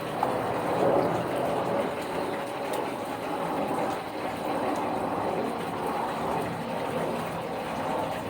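Chicken wings frying in hot oil, a steady sizzling hiss with no breaks.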